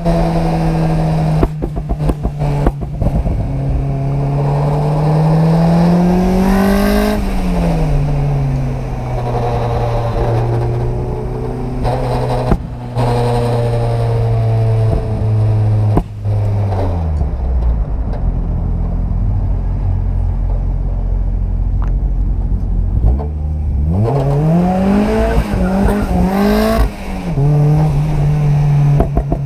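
Turbocharged 1.6-litre four-cylinder engine of a Mazda MX-5 (NB) driving. The engine note climbs in pitch to about seven seconds in, then drops back to a steady cruise. It falls to a low note for a stretch in the middle, then revs up again toward the end, with a shift about three seconds before the end.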